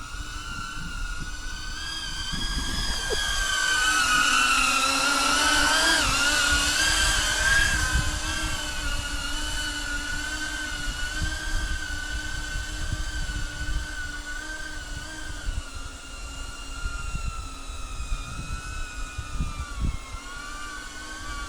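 Airscaphe X4 Pro caged drone's propellers whining in flight, the pitch wavering up and down, swelling louder about three seconds in and easing after about eight seconds. Low gusts of wind rumble on the microphone.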